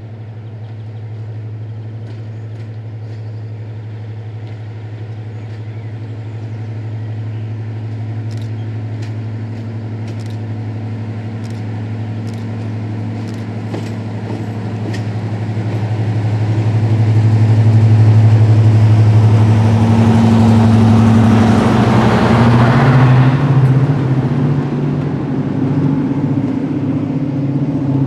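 Preserved mainline diesel locomotive engine running with a steady low hum, growing steadily louder as it approaches and passes close by. The note is loudest about two-thirds of the way through, with a rush of noise as it goes past, after which the engine note changes and turns rougher.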